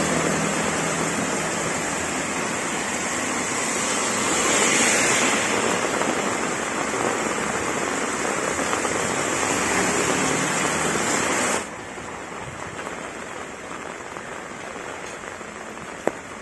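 Heavy tropical rain pouring on a wet road and roofs, with runoff splashing down from a roof edge; it swells louder about four seconds in. About two-thirds through, it drops suddenly to softer, steady rain.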